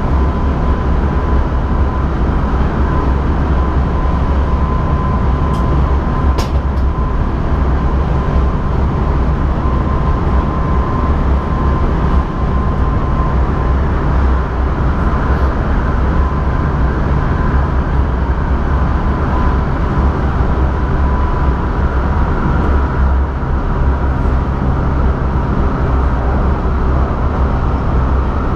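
Cab of an NS ICM electric intercity train running along the line: a steady rumble of wheels on rails with a thin steady whine. There is a single sharp click about six seconds in.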